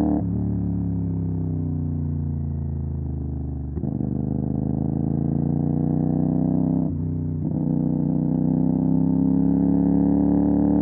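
CFMOTO 450 SR's parallel-twin engine running through an MSH G6 full-system exhaust on the move. The pitch sags slowly over the first few seconds. The engine note breaks briefly about four seconds in and twice around seven seconds in.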